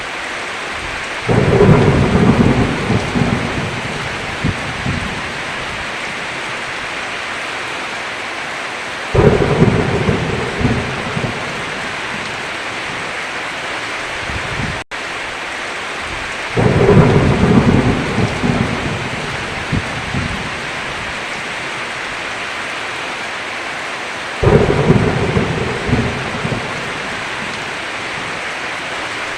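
Steady heavy rain with thunder: four sudden claps, evenly spaced, each rumbling off over a few seconds.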